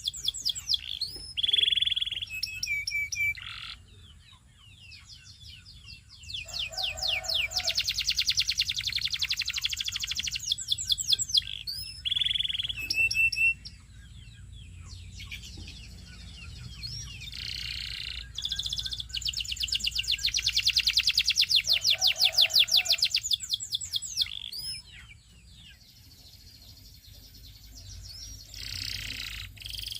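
Belgian singing canary singing: long, rapid, high-pitched trills and rolling phrases, broken by short pauses, with a couple of brief lower notes, once near the start and again about two-thirds of the way through. A faint steady low hum sits underneath.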